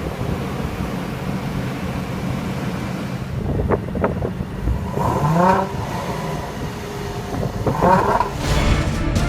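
Supercharged 3.0-litre V6 of a 2014 Range Rover Sport running with a steady low exhaust rumble, blipped up in pitch twice, briefly, about five and eight seconds in.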